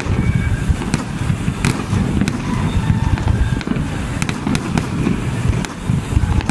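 Fireworks display: a continuous barrage of deep booms, with many sharp bangs and crackles overlapping it. Crowd voices are faintly audible underneath.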